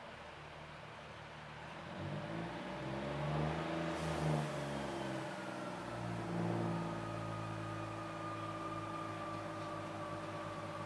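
Class 144 Pacer railcar's underfloor diesel engine heard from inside the carriage, ticking over and then revving up about two seconds in as the unit pulls away, with a thin whine that rises slowly from about halfway through.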